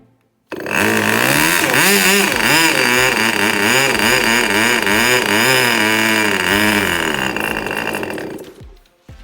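Magnum GP 15 2.49 cc glow-plug model aircraft engine catching on a cold start after many tries and running with its speed surging up and down, then dying away about eight seconds in.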